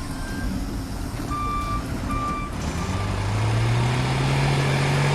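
A vehicle's reversing alarm beeps two or three times, then a heavy engine runs up, its pitch rising slowly and growing louder.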